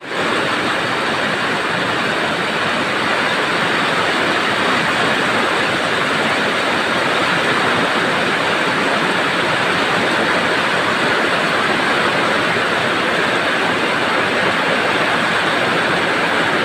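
Heavy rain pouring down in a steady, loud hiss that does not let up.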